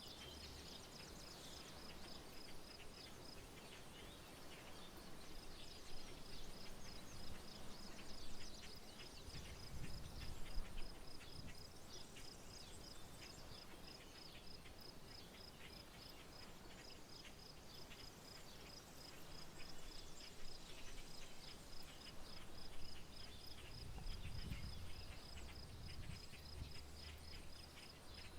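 Faint rural outdoor ambience dominated by a high, rapidly and evenly pulsed insect trill, with scattered short bird chirps. A low rumble swells up twice, about ten seconds in and again near the end.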